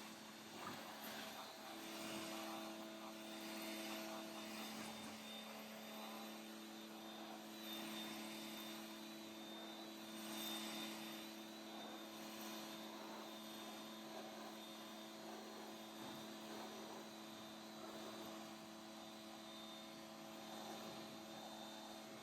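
Pressure washer running with a steady hum, its water spray hissing and swelling now and then as the jet works over the truck's panels.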